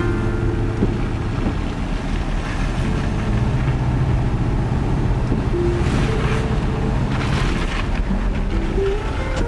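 Storm wind rumbling across the microphone, with gusts swelling brighter about six and seven seconds in.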